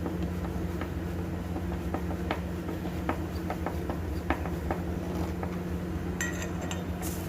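Scattered light metallic clinks and taps of tools and metal parts as a washing machine wash motor is fitted into its mount, over a steady low background hum. A short high squeal comes near the end.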